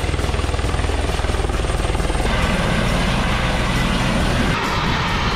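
Helicopter rotor beating loudly in fast, even pulses, with a rushing noise like wind joining about two seconds in as the helicopter comes in.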